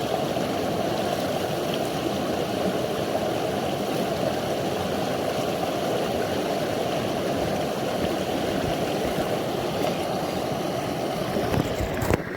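Shallow creek water flowing steadily, a continuous rushing and gurgling, which cuts off abruptly with a short knock near the end.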